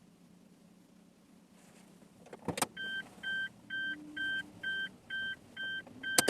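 A car's electronic warning chime beeping at a steady pitch, eight beeps at about two a second. A sharp click comes just before the beeps start, and another as they stop.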